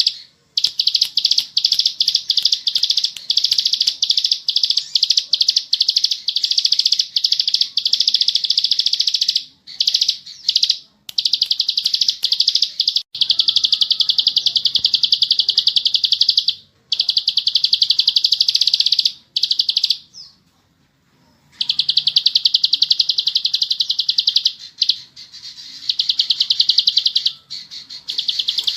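A ciblek sawah, a small prinia, sings long, very rapid buzzing trills (the 'ngebren' song). The trills come in runs of several seconds with brief breaks, and there is one longer pause about two-thirds of the way through.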